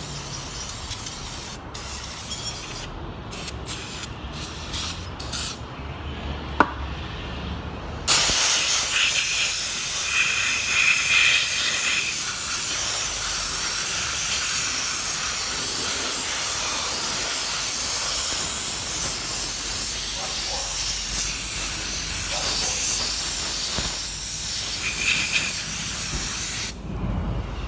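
Pressurised spray hissing steadily for close to twenty seconds, starting and stopping abruptly. It is likely cleaner being sprayed on a weed eater engine part to wash off carbon. Before it there are a few light clicks and handling knocks.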